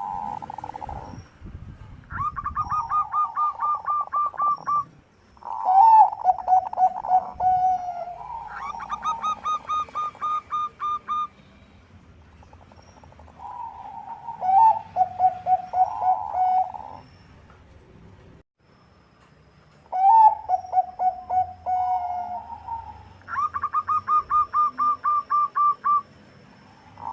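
Zebra dove (Bangkok-type perkutut) cooing: repeated phrases of fast rolling, pulsed notes, each lasting a few seconds, separated by pauses of a second or two.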